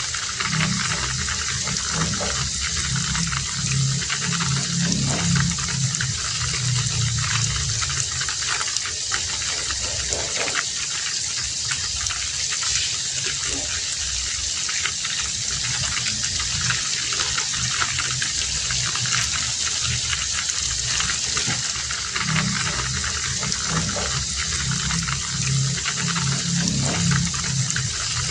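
Heavy rain falling steadily, with a low rumble underneath that swells during the first third and again near the end.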